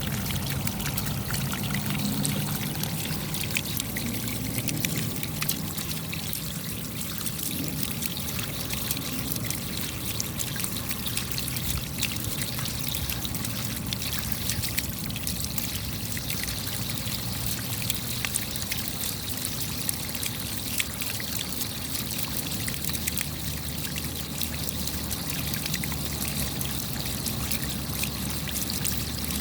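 Steady rain: many separate raindrops ticking over a constant wash of falling and trickling water.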